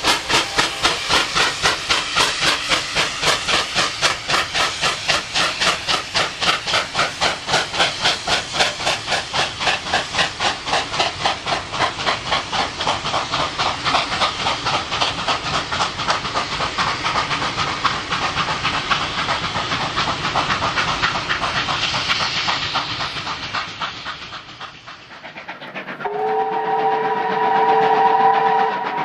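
Double-headed NSW 38 class steam locomotives working hard, their exhaust beating rapidly and evenly, fading away after about 20 seconds. Near the end a steam chime whistle sounds a several-note chord for about three seconds.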